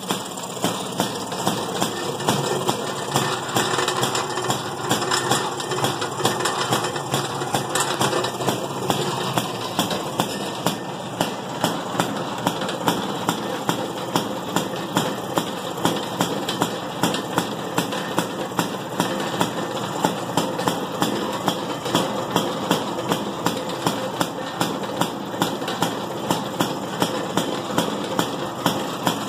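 Single-cylinder gas engine of a 1929 Maytag wringer washing machine running steadily, with a sharp knock repeating about twice a second.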